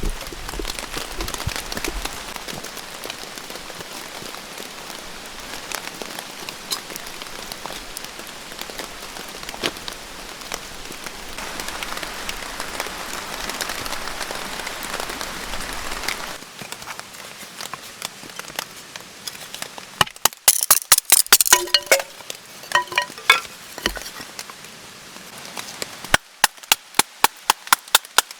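Rain pattering steadily on a tarp, with scattered drip ticks. It eases off after about sixteen seconds, and runs of sharp knocks and clinks follow, ending in a fast regular series of knocks.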